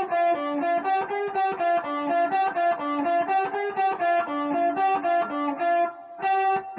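Guitar playing a quick blues lick of single picked notes moving between the minor third, fourth and flat fifth of the scale and back down to the root, about four or five notes a second. It ends on one held note.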